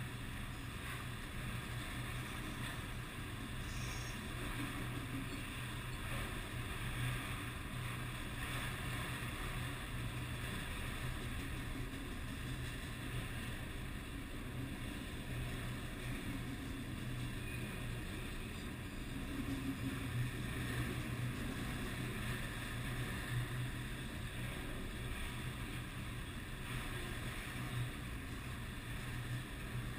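Freight train of enclosed autorack cars rolling past at steady speed: a continuous low rumble of steel wheels on the rails.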